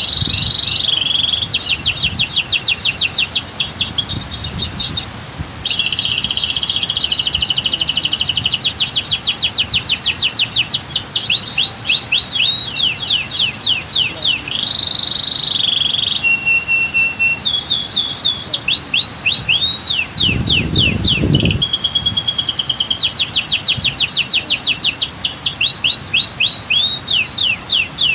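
Domestic canary singing without pause in fast trills and rolls of rapidly repeated notes, with a short steady whistled note about seventeen seconds in. A brief low rumble sounds about twenty seconds in.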